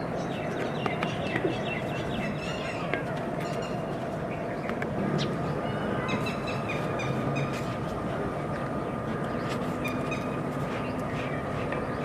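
Steady background noise with several short clusters of bird calls and a few scattered light clicks or taps.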